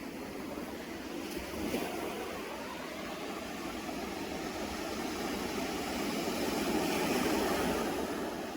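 Sea surf washing against the shore in a steady rush that swells a little louder near the end.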